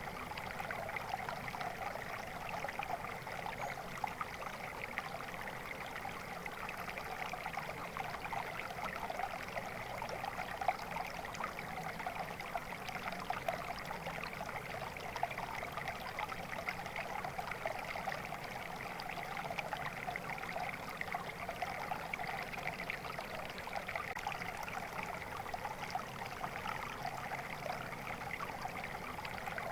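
Flowing water running steadily, a continuous fine babbling with no change in level.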